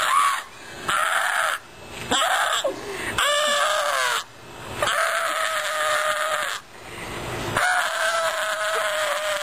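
A person's voice crying out in about six long, high cries, each held a second or two, with short breaks between them.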